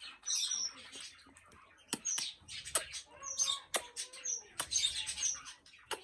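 Green parrot making short, high chirps and squeaks between its talking, with several sharp clicks in between.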